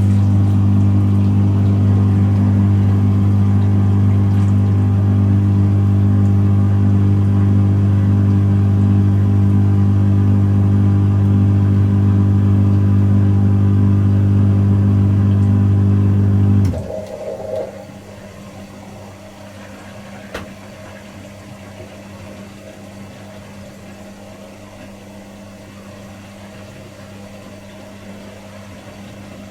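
Pro Action PRSLG96W slimline dishwasher running with a loud, steady low hum from its pump that cuts off suddenly a little over halfway through. A brief noise follows, then a much quieter steady hum.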